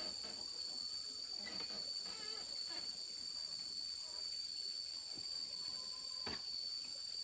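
Steady, high-pitched drone of insects, with a few faint wavering calls early on and a single sharp click about six seconds in.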